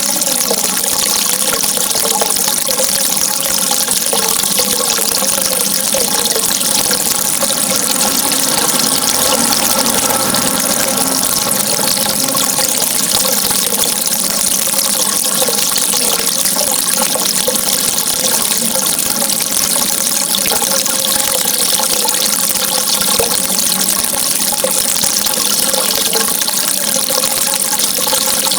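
Steady running water, an unbroken rush with a light burbling in it and no pauses.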